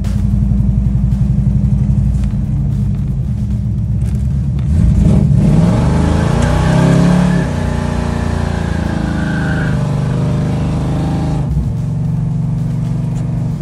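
Car engine running loudly while driving, heard from inside the cabin; about five seconds in it revs up, then eases off again a couple of seconds later.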